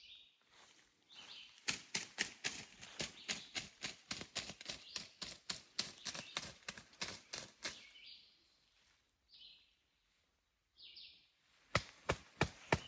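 Quick, rhythmic slapping, about four strokes a second, made to imitate a wild turkey's wingbeats as it flies up to roost. The run of strokes stops about two-thirds of the way through and starts again near the end.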